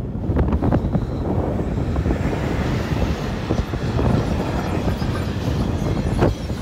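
Electric-hauled freight train of covered sliding-wall wagons passing close by at speed: a steady rumble and rush of wheels on rail, with a few sharp wheel clacks, one of them near the end.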